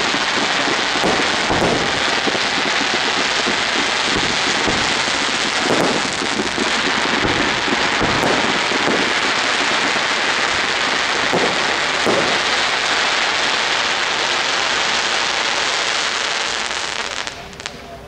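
Fireworks display: a dense, steady crackling hiss of burning effects, with a few deeper thumps of launches and bursts through it, dying away shortly before the end.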